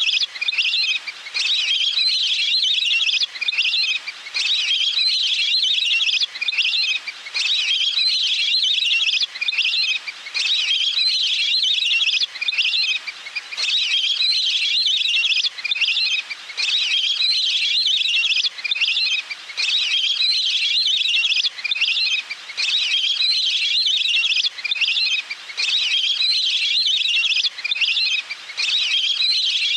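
Looped lure recording of a water bird's call: a fast, high trill in phrases a couple of seconds long, repeating about every three seconds with short gaps.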